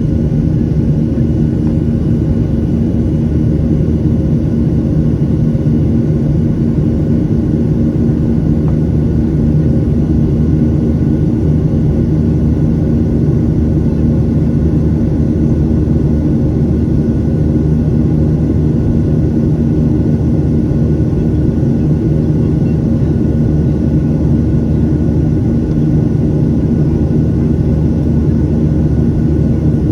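Boeing 737-800's CFM56 jet engines running at steady power: a constant low rumble with a few steady hum tones over it.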